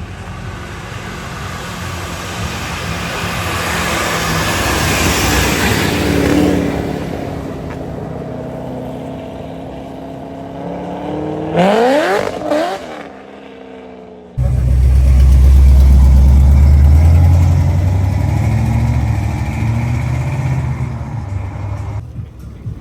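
Car engines: one swells and fades as it passes, then an engine revs quickly, rising sharply in pitch, about twelve seconds in. After an abrupt change, a loud, deep, steady exhaust rumble follows.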